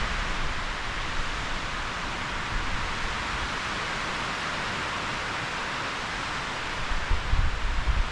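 Strong wind rushing steadily through forest trees, with low buffeting rumbles of gusts hitting the microphone near the end.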